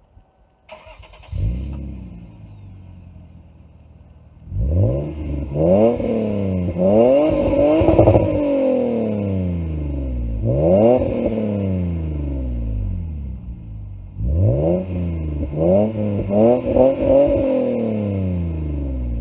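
1998 Lexus SC300's 2JZ-GE inline-six exhaust: the engine cranks briefly and catches about a second in, idles, then is revved in quick repeated blips that rise and fall in pitch. It settles back toward idle around the middle, is revved in another burst of blips, and eases off near the end.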